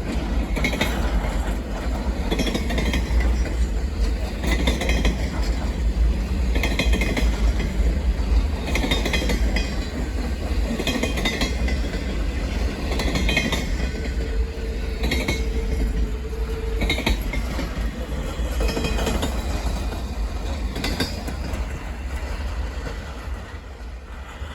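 Train cars rolling past, their wheels clicking over rail joints in pairs about every two seconds over a heavy rumble. A brief thin squeal comes about two-thirds of the way through, and the sound fades near the end.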